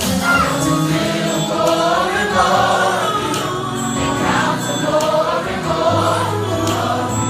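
Gospel choir singing with band accompaniment, held bass notes under the voices.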